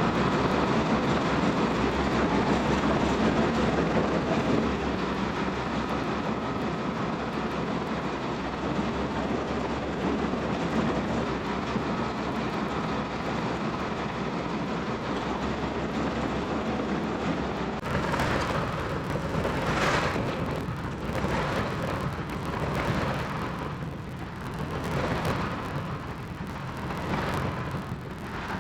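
Tracked diesel machine running and crawling over loose soil, its steel tracks clanking as they pack the dirt down. About two-thirds of the way through, the sound changes to a thinner running with recurring surges every second or two.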